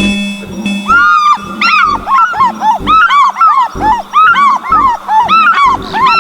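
Birds screaming: a rapid, overlapping series of loud calls, each arching up and then down in pitch, starting about a second in.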